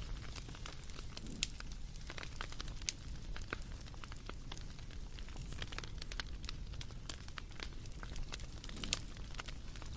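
Wood fire crackling: irregular sharp pops and snaps over a steady low rumble of burning, with a few louder pops scattered through.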